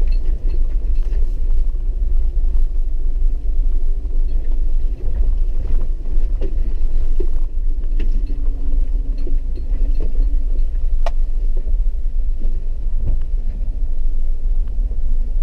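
Four-wheel-drive vehicle heard from inside the cabin while driving a rough dirt trail: a steady low engine and road rumble with a faint hum. Scattered ticks and small knocks run through it, with one sharper click about eleven seconds in.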